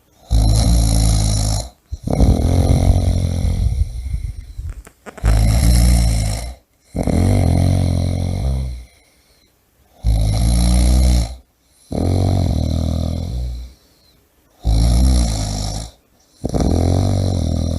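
A person snoring: four breath cycles about four to five seconds apart, each a loud, low snore of about a second and a half followed by a longer, softer, rasping breath.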